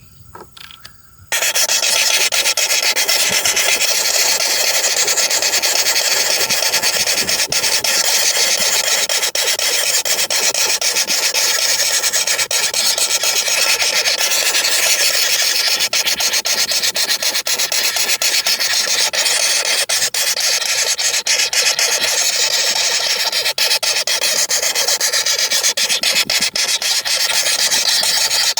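Woodpecker nestlings begging from inside the nest hole: a loud, continuous harsh rasping buzz that starts abruptly about a second in, the sound of the young calling for food.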